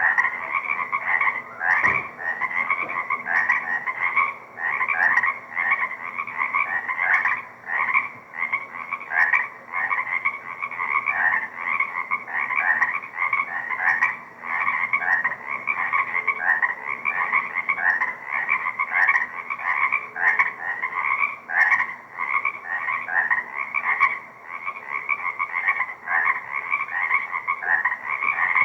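A dense chorus of many frogs calling at once in a spring wetland: short rising notes overlapping several times a second without a break.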